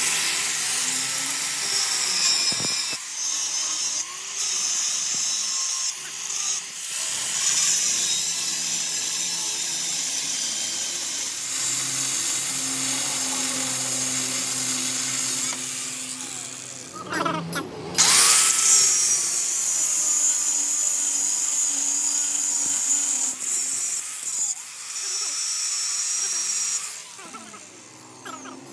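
Power tool working on a metal crankshaft, running with a steady high-pitched whine in long stretches broken by brief pauses.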